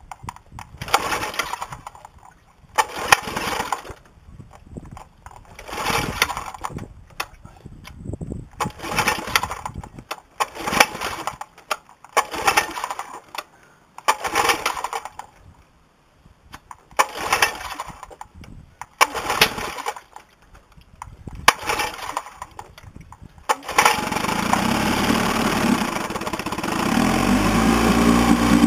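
A 1960 Evinrude 10 hp Sportwin two-stroke outboard being pull-started: about ten pulls of the recoil starter, each a short rattling whir, before the engine catches about 23 seconds in and runs, revved up near the end to keep it going. The motor is hard to start and will not idle, needing to be kept at high revs.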